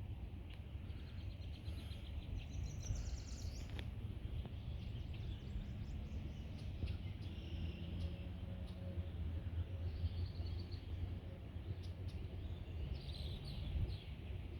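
Outdoor marsh ambience: a steady low rumble of wind on the microphone, with birds chirping and calling now and then, including a short fast trill a few seconds in and a cluster of chirps near the end.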